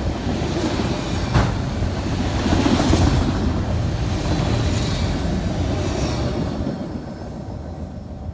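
Freight train rolling past on the rails, with one sharp click about a second and a half in. The sound dies away over the last couple of seconds.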